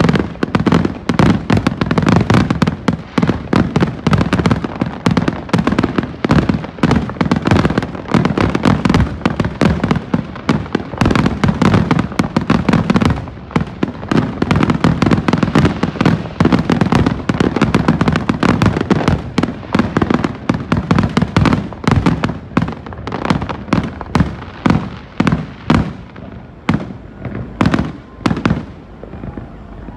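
Fireworks display finale: a dense, continuous barrage of aerial shell bursts, many booms a second, thinning to separate booms in the last few seconds.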